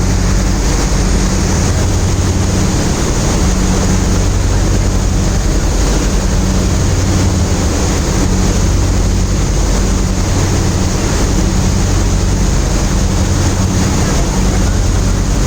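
A steady low drone under constant rushing noise, unchanging throughout.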